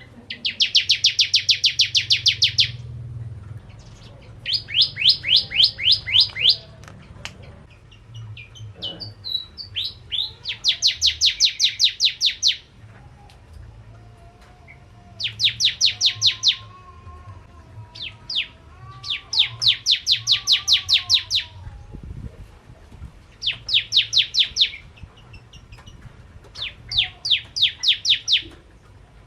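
Bar-winged prinia (prenjak jawa) singing. It gives about seven loud bursts of rapid-fire, evenly repeated high chirps, each burst a second or two long, with short pauses between.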